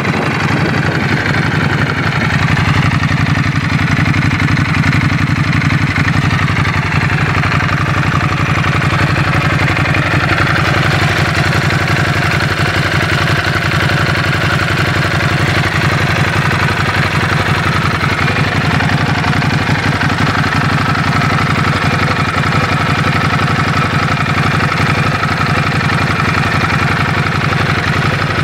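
Ducati Hypermotard 821's Testastretta 11° L-twin engine idling steadily and loudly through its exhaust, with no revs.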